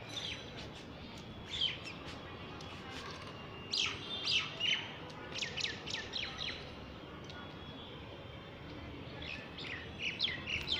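Small birds chirping in several quick clusters of short, sharp chirps, loudest about four to six seconds in.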